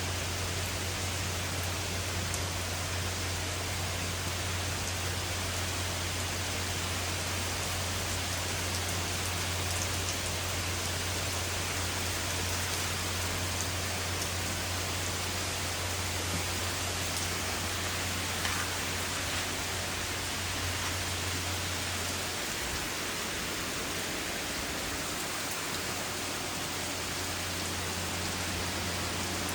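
Steady rain falling, an even hiss with a low rumble underneath that drops away about three-quarters of the way through.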